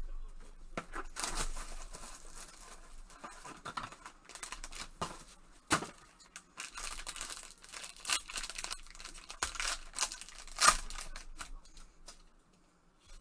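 Trading-card box packaging being torn open and handled: irregular crinkling and tearing of plastic wrap and cardboard. There are a couple of sharp clicks, the loudest about three-quarters of the way through.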